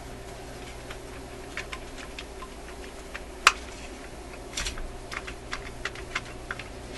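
Scattered light metallic clicks and taps as a radio tube's metal shielding can is worked at by hand to pull it off its base, with one sharp click about halfway through. The can does not quite come free.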